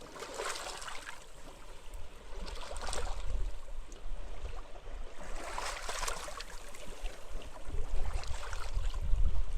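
Small sea waves washing in every two to three seconds, each a short rush of surf. Underneath is a fluctuating low rumble of wind on the microphone.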